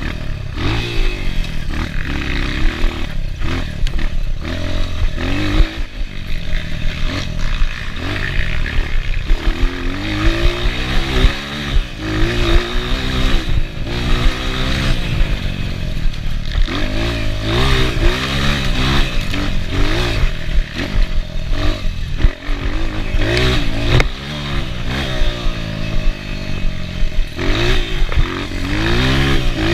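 Enduro dirt bike engine ridden hard on a trail, the revs rising and falling again and again with the throttle and gear changes, amid frequent clatter and knocks from the bike over rough ground.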